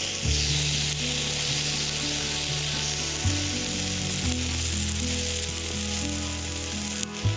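Food sizzling as it fries in hot fat, a steady crackling hiss, with background music playing underneath.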